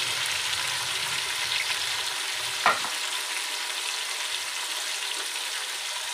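Onions and tomato slices sizzling steadily in hot oil in an aluminium pot. About two and a half seconds in there is one sharp metal clink, the stirring fork knocking the pot.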